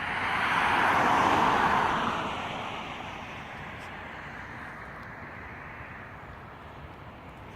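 A car driving past: a rush of tyre and road noise that swells over about a second, peaks, then fades away over several seconds.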